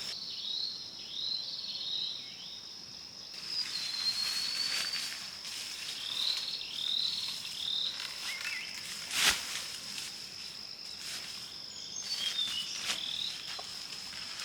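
Tropical forest insects droning on one steady high pitch, with groups of short chirping calls from small animals over it. A single sharp snap about nine seconds in.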